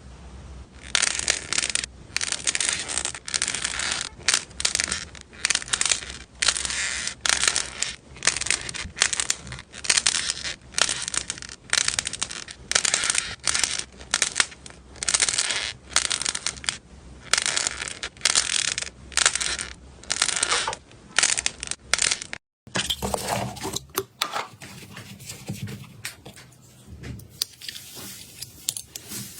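Slime being pressed and squished by hand, with a crackling crunch on each press, about one to two presses a second. A little over two-thirds of the way through it cuts to a softer, more continuous crackle.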